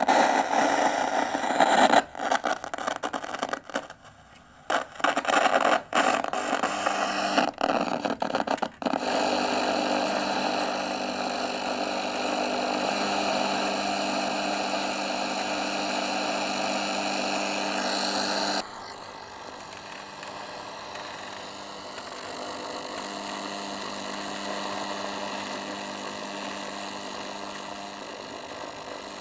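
Static hiss from a Sony ICF-J40 portable radio's speaker. It switches on suddenly, cuts in and out sharply for several seconds, then runs steady with a faint hum of steady tones. About two-thirds of the way through it drops abruptly to a quieter hiss.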